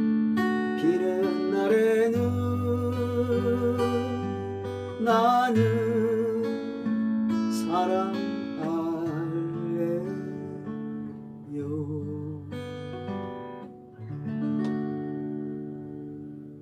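Acoustic guitar strummed and picked under a voice holding long, wavering notes, playing out the close of a Korean ballad. The music fades steadily toward the end.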